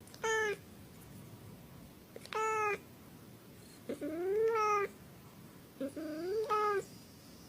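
A domestic cat meowing four times: two short meows, then two longer ones that rise and fall in pitch.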